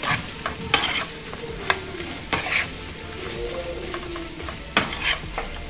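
Chicken pieces in a thick tomato sauce sizzling in a frying pan while being stirred, with a utensil knocking and scraping against the pan about five times.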